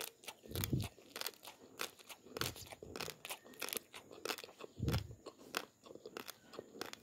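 Raw basmati rice grains being chewed: rapid, irregular crunches and sharp cracks, with two duller low thumps, one under a second in and one about five seconds in.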